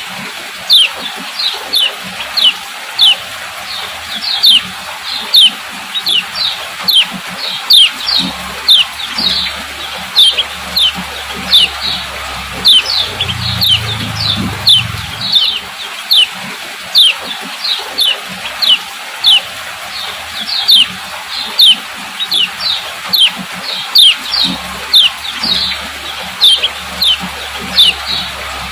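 Female kecial kuning calling 'ciak ciak': a steady series of short, sharp notes, each falling quickly in pitch, about two a second. A low hum comes and goes underneath.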